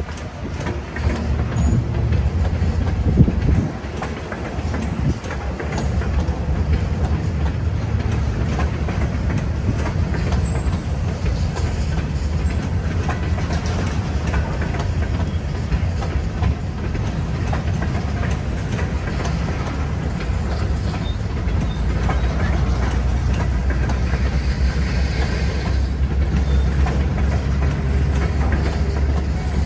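Freight train flatcars rolling past: a steady low rumble of steel wheels on rail, with repeated clicks as the wheels pass over the track.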